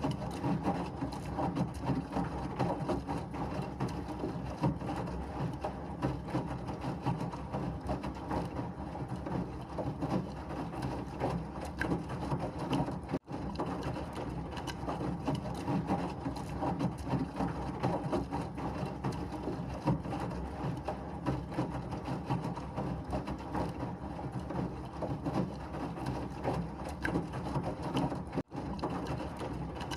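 Washing machine running: a steady churning rumble with fine rattling. The sound cuts out for an instant twice, once near the middle and once near the end.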